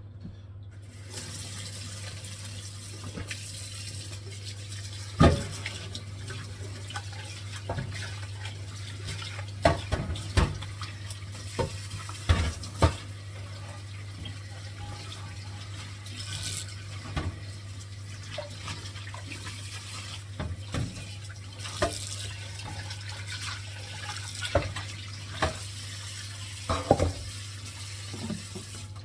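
Tap water running into a kitchen sink, starting about a second in, with sharp knocks and clatter of a pot and dishes at irregular intervals over a steady low hum.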